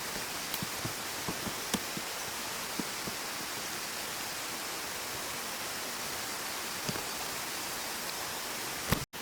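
Mountain stream water flowing with a steady rush, with a few faint light ticks over it. The sound drops out for an instant near the end.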